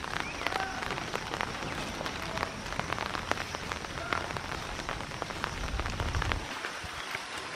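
Light rain pattering, with many small irregular drop ticks over a steady hiss, and a brief low rumble about six seconds in.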